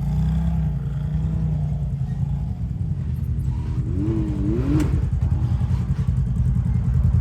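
Side-by-side UTV engine running at low revs while crawling an obstacle, with a few quick throttle blips about four seconds in and a single sharp knock just after.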